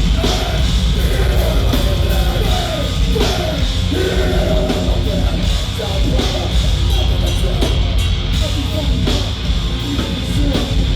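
Heavy metal band playing live at full volume: pounding drum kit and guitars, with vocals over them.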